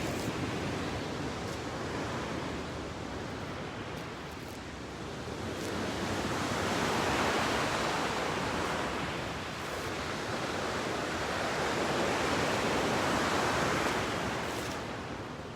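Ocean surf: waves breaking and washing in as a steady rush, swelling louder twice, around the middle and again near the end.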